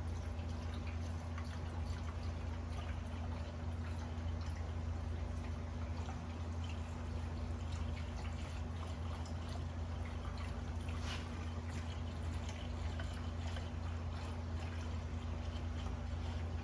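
Coolant being poured into a freshly installed radiator, a steady trickle and splash of liquid with small scattered drips, over a steady low hum.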